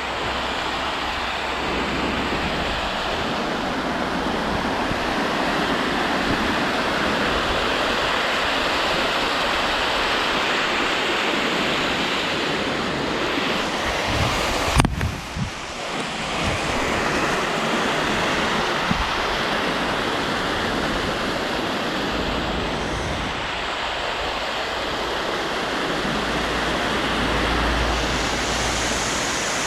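Steady rushing water of a waterfall, a dense even roar, with wind buffeting the microphone. A single sharp knock sounds about halfway through.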